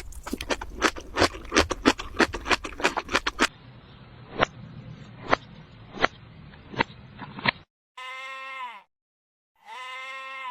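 Fast crunching clicks, like an animal chewing, for about three and a half seconds, then a few sparse clicks. About eight seconds in, two bleats of about a second each, evenly spaced, each dropping in pitch at its end.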